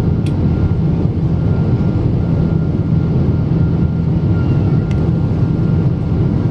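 Steady engine and airflow noise inside the cabin of a Boeing 777-200 airliner, heaviest in the low range, with two faint clicks.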